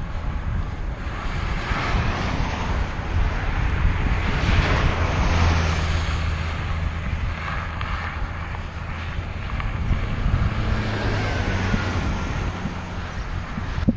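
Wind buffeting the microphone during a bicycle ride, with a steady low rumble and a low hum from about five to eleven seconds in.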